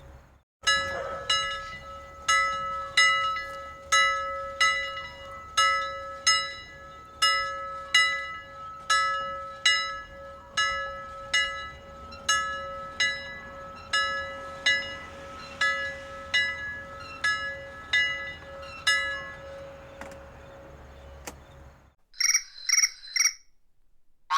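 A medium-sized bell rung close up, struck over and over at about two to three strokes a second, its tone ringing on between strokes. It stops near the end, and a few short electronic phone-alert beeps follow.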